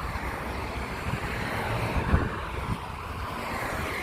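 Wind buffeting the microphone: an uneven low rumble over a steady hiss, with one short knock about two seconds in.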